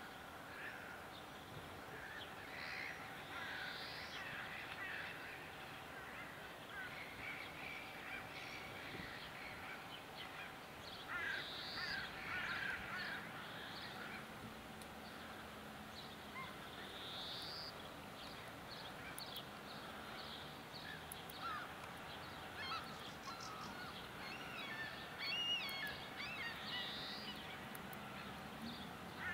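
Several wild birds calling and chirping: many short, high chirps, sweeps and trills overlapping, with a busier patch of quick twittering near the end.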